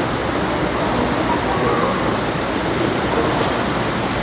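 Steady, loud rushing noise, even throughout, with faint voices underneath.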